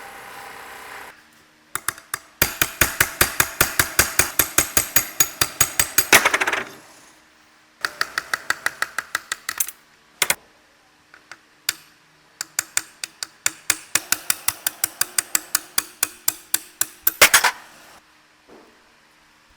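A hammer striking metal in quick, even blows, about five a second, in three runs of several seconds each, with a few single knocks between them; each blow rings briefly.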